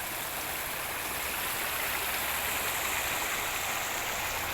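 Steady rushing of a flowing stream, an even wash of water noise with no breaks.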